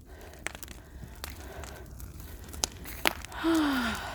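Bonfire of scrap crackling, with irregular sharp pops over a steady low rumble. Near the end a brief falling vocal sound.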